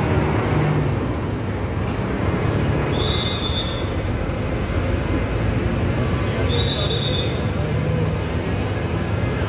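A steady rumbling noise with a low hum, broken by two brief high tones, one about three seconds in and one about six and a half seconds in.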